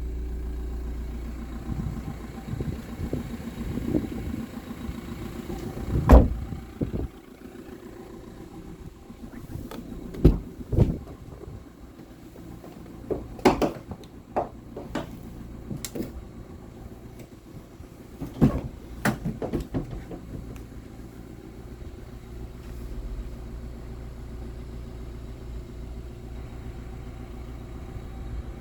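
Fiat Doblo 1.6 JTD diesel engine idling steadily. Over it comes a string of sharp knocks and clunks, the loudest about six seconds in, and several more between about ten and twenty seconds in.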